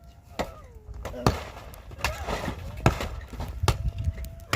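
Five heavy blows at a steady pace, about one every 0.8 s, each with a dull thud, as of something being pounded or chopped. A long held voice-like tone rises over them and slides down in pitch twice.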